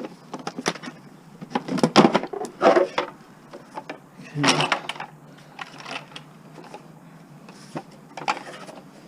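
Hand tools and metal mower parts clinking and knocking irregularly as the lawn mower is taken apart, with a few louder bursts of clatter.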